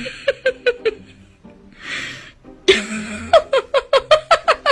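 Laughter: runs of short 'ha' pulses, each dropping in pitch, about four or five a second. A short hiss breaks in about two seconds in.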